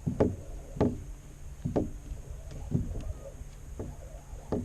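Hollow knocks on a plastic kayak hull, about one a second, as the anchor line pays out and the anchor goes down.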